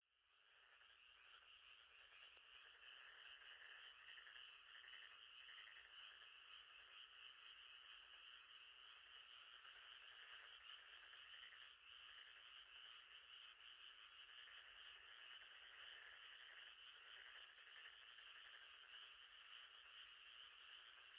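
Faint, steady night chorus of many frogs calling together in a dense, continuous trill. It fades back in just after a brief dropout at the start.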